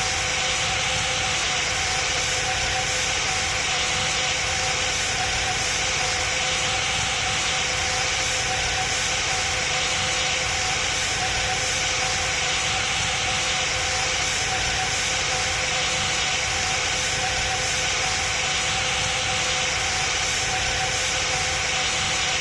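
Boeing 777 passenger cabin noise: a steady rush of jet engine and airflow noise with a faint steady hum, unchanging throughout.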